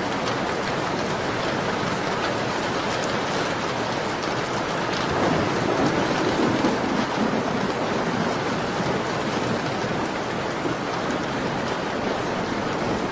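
Steady rain on a window, a dense even hiss, with faint scattered crackles from a fireplace. The rain swells briefly around the middle.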